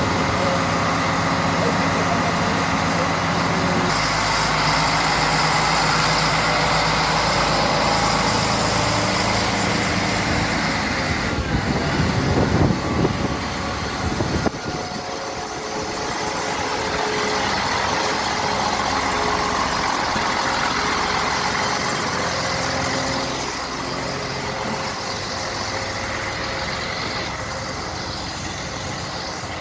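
Regional train moving slowly past close by, with a steady engine drone over rumbling wheel noise. A louder, rattling stretch comes about twelve to fourteen seconds in, then the sound eases a little.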